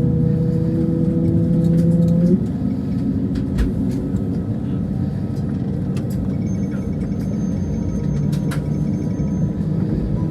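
Airbus A320neo cabin noise during pushback and engine start: a steady low rumble, with a humming drone that cuts off suddenly about two seconds in. A few faint clicks and a thin high whine are heard later.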